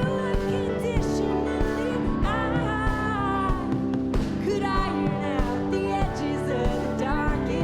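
A live rock band playing a song at full concert level: steady drum beats under sustained guitar chords, with a wavering melody line that sounds like singing.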